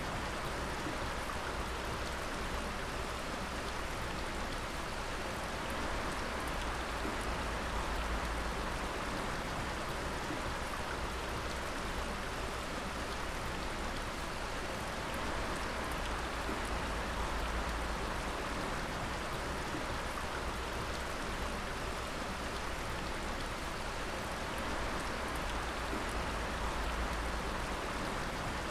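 Water dripping steadily, a dense patter of drops over an even watery hiss, with a low rumble underneath.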